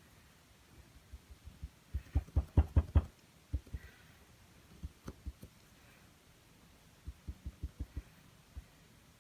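Paintbrush tapping and dabbing on a small stretched canvas: runs of quick soft, low taps, a fast burst in the first few seconds that grows louder, a few scattered taps in the middle, and another quick run of about six taps near the end.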